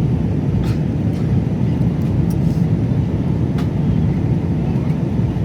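Steady low rumble of an airliner cabin in flight, the drone of the jet engines and rushing air, with a few faint clicks.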